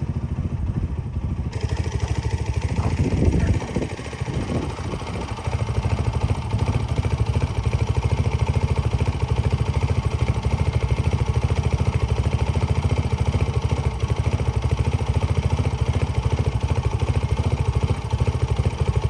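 A vehicle engine running steadily with a fast, even low pulsing, with a brief louder surge about three seconds in.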